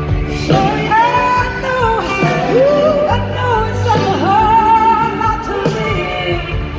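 Live band playing rock-blues, with a lead melody that glides and bends between held notes over the full band accompaniment.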